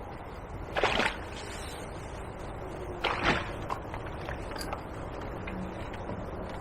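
River water sloshing and splashing, with two short splashes, about a second in and about three seconds in, over a steady background rush.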